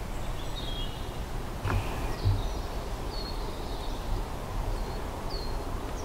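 Woodland ambience: small birds giving short high chirps about once a second over a steady low rumble.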